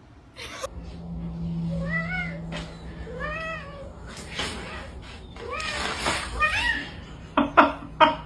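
A cat meowing: about four drawn-out meows that rise and fall in pitch, then a few short, sharp, louder meows near the end. A steady low hum lies under the first half.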